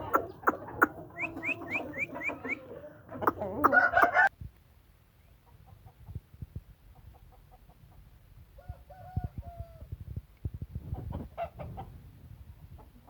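Aseel chickens clucking and calling, with a quick run of short rising chirps in the first few seconds. The sound drops off suddenly about four seconds in, leaving fainter clucks, scattered knocks and one short call.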